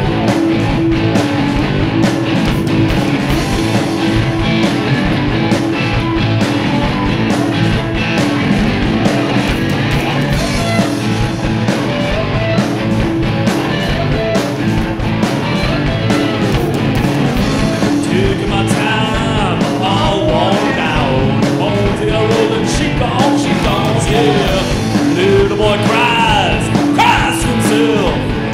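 Live rock band playing at full volume: electric guitar, bass, lap steel and drums, with gliding lead lines and a voice that comes in over the band in the second half.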